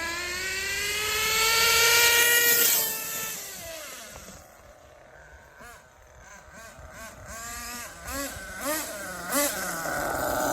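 Hong Nor Force 32 5.2cc nitro engine in an RC truggy running during break-in. It makes a full-throttle burst, a high whine rising in pitch for about three seconds, then falls away and fades. Several short throttle blips follow, and the engine comes back up steadily near the end.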